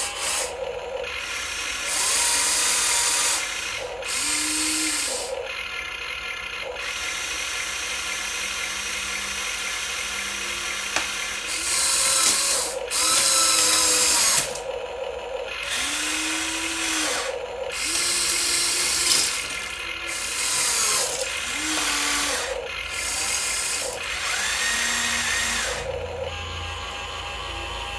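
Small electric motors of radio-controlled model vehicles whirring in repeated bursts of one to three seconds. In each burst the pitch rises as the motor spins up and falls as it stops.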